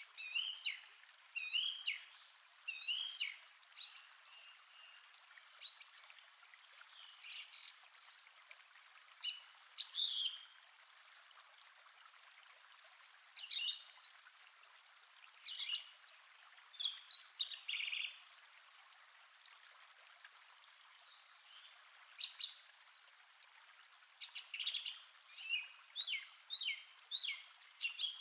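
Several songbirds singing and chirping in a forest chorus: short, quick phrases and sweeping notes, one after another, over a faint steady hiss.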